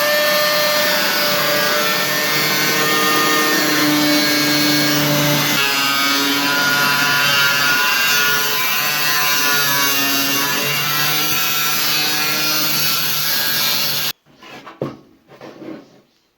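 Disc grinder with a cutting disc running continuously as it cuts through the sheet steel of an 18-litre can, its whine wavering in pitch under load. It cuts off abruptly near the end, followed by a few light knocks.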